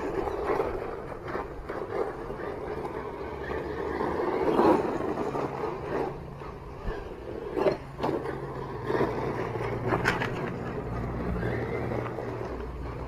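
1/10-scale RC monster truck driven over rough ground: steady tyre and drivetrain noise with repeated sharp knocks and scrapes from the chassis and tyres hitting the ground, and a steady low hum in the latter half.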